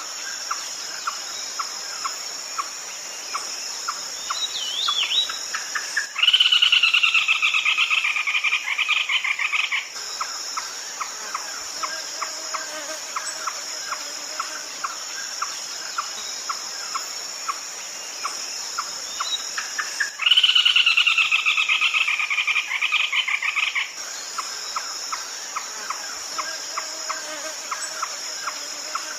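Red-legged crake calling: a loud, pulsed, slightly descending rattle lasting about four seconds, given twice about fourteen seconds apart, over a regular ticking of short notes and a steady high insect hum.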